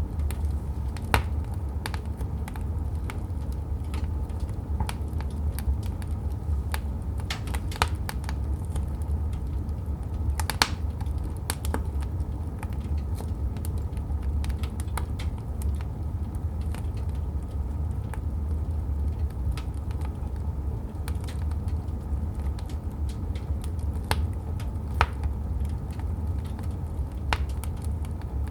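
Wood fire crackling in a fireplace: irregular sharp pops and snaps over a steady low rumble of the burning logs, with a few louder pops about a second in, near eight seconds and past ten seconds.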